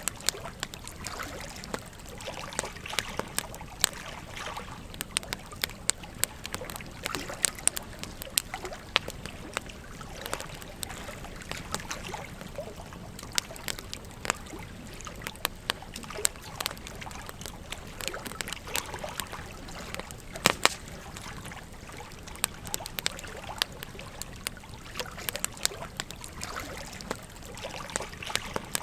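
Campfire crackling with frequent sharp pops and snaps at irregular intervals, over the steady rush of a gently flowing stream. The loudest pops come in a quick cluster about two-thirds of the way through.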